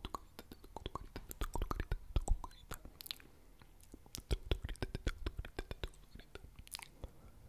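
Close-miked chewing with many quick, wet mouth clicks, coming in busy stretches with short, quieter pauses.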